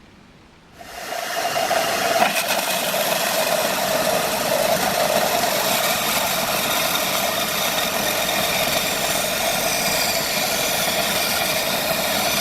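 An electric workshop power tool starts up about a second in and runs steadily, with a steady motor tone under a dense grinding hiss.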